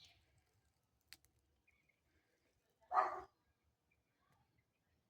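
A single short animal call about three seconds in, with a faint click about a second in.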